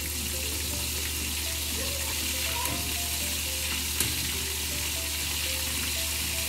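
Chicken wings frying in hot oil in a frying pan: a steady sizzle as the pieces are turned with metal tongs to brown the other side, over a steady low hum. One sharp click sounds about four seconds in.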